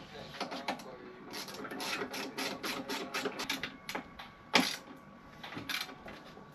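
Hand tools at work on a scooter: a quick run of even clicks, about five a second, lasting a couple of seconds, then two single sharper knocks.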